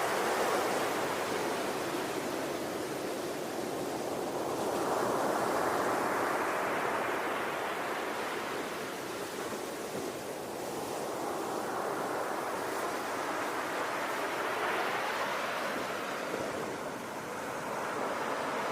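Ocean surf: a steady rush of waves that swells and eases in slow surges, cresting roughly every five or six seconds.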